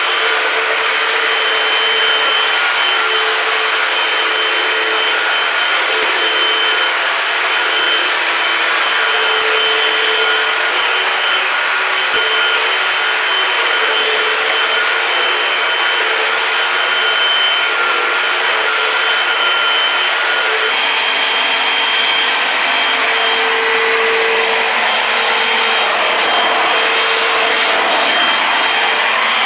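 Eureka AirSpeed Multicyclonic Pet upright vacuum cleaner running steadily while vacuuming, a loud even whoosh with a whining hum that wavers slightly in strength.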